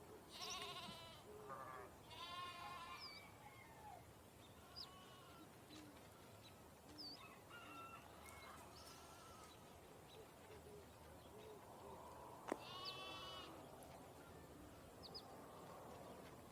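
Sheep or goat-type livestock bleating in quavering calls, about three times: near the start, around two seconds in, and near the end. A single sharp click comes just before the last bleat.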